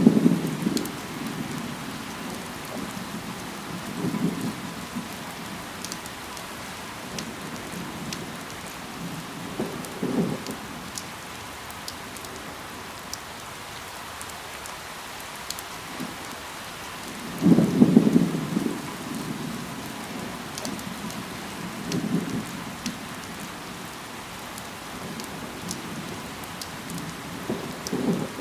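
Steady rain with scattered drops clicking. Every few seconds comes a brief low thud or rumble, the loudest about eighteen seconds in.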